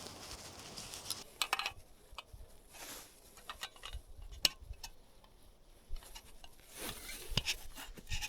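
Handling noises: a soft rustle, then irregular light clicks, taps and short scrapes of things being moved and set down, one sharper click about halfway through.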